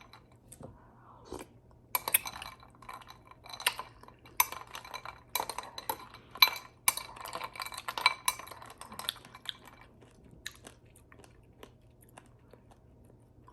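A spoon clinking and scraping in a bowl of fruit, ice and coconut water, with chewing. The clinks come thick and fast for the first several seconds, then thin out to a few scattered ticks near the end.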